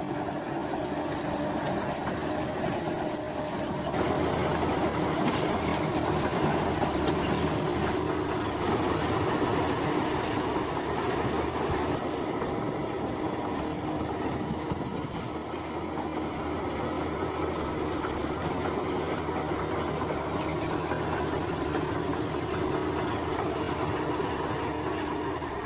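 Komatsu crawler bulldozer's diesel engine running steadily under load, with the metallic clatter and squeak of its steel tracks.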